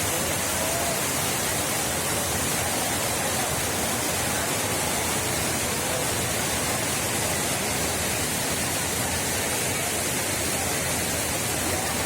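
Waterfall's water rushing steadily: an even, unbroken hiss of falling water.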